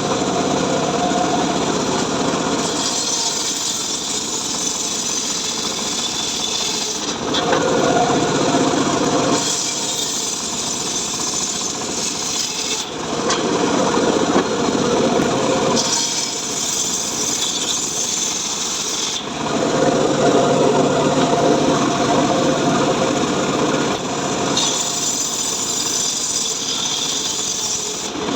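Homemade engine-driven saw rig (gergaji srekel) cutting mahogany wood, running loudly without a break. Every few seconds the sound switches between a higher, hissing cut and a lower, heavier tone.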